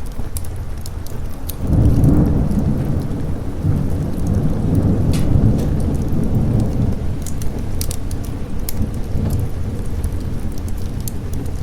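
Rolling thunder that swells about two seconds in and rumbles on for several seconds over steady rain, with the sharp crackle of a wood fire in a fireplace.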